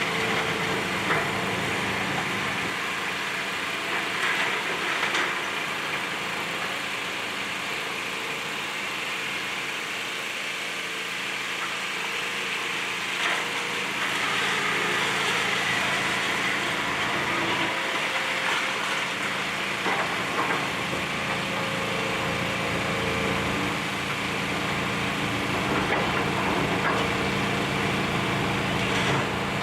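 Demolition excavator's diesel engine running steadily, with a few short knocks here and there.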